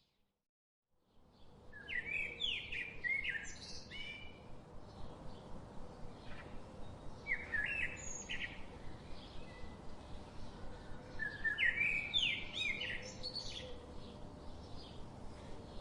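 Birds chirping in repeated bursts of quick, high, falling notes over a steady background hiss. The sound comes in about a second in, after a brief silence.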